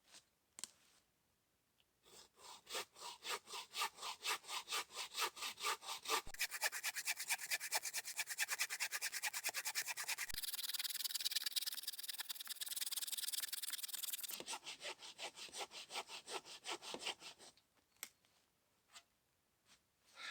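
Hand saw cutting through a piece of dead firewood in rhythmic back-and-forth strokes. The strokes start about two seconds in, quicken to fast short strokes in the middle, slow again and stop a few seconds before the end, followed by a few light knocks.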